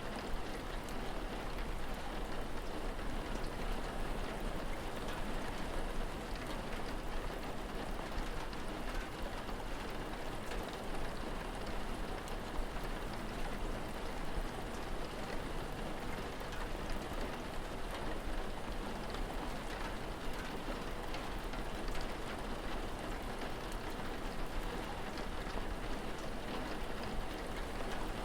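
Steady rain falling, with a dense patter of small drops on surfaces.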